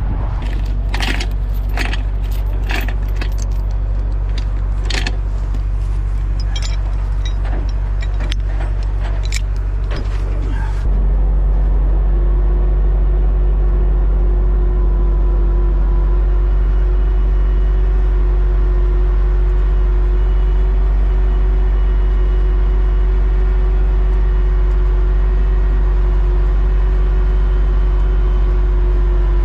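Heavy tow truck's diesel engine running steadily, with metal clinking and rattling for about the first ten seconds. About eleven seconds in, the engine steps up to a higher, louder speed and a steady whine sets in and holds.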